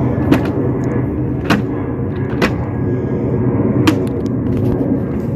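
A steady motor drone, typical of a vacuum cleaner running, with four sharp clicks or knocks as it is moved about.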